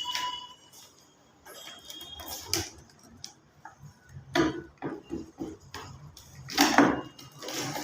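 Irregular hard knocks, clinks and short scrapes of tools on ceramic tile during tile removal, a cluster of louder strikes near the end.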